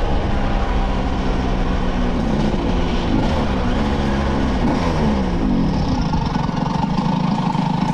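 Several small two-stroke moped and scooter engines running together, their pitches sliding down and crossing one another through the middle.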